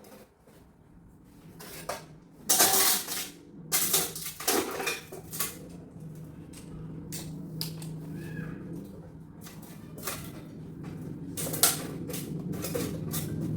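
Hard objects clattering and knocking against each other in quick, irregular strikes, loudest a few seconds in, over a steady low hum that grows louder toward the end.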